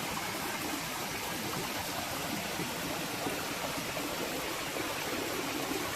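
Running water, a steady, even rush with no distinct events.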